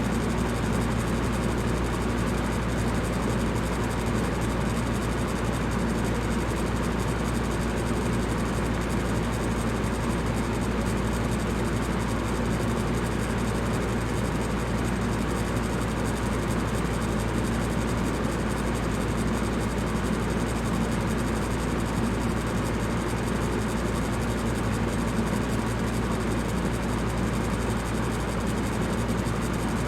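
Electric fan running steadily: an even rush of air over a low, constant hum.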